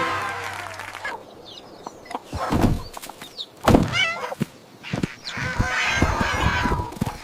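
Cartoon chicken sound effects: brief high chick peeps and a longer hen-like call near the end, with two soft thumps in between.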